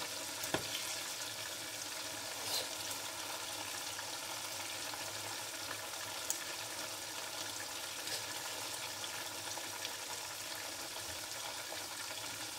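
Chicken pieces and tomatoes sizzling steadily in oil and a little water in a pot, with a few light knocks of a wooden spoon against the pot, the first about half a second in.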